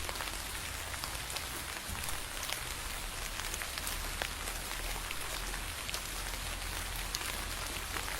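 Steady rain, with many separate drops ticking sharply close by.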